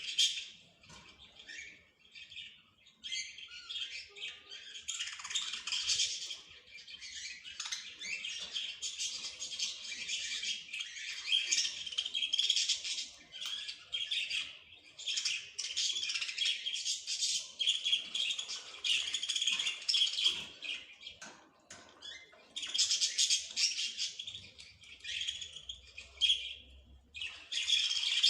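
Small birds chirping and twittering in long runs of rapid, high notes, broken by a couple of brief pauses.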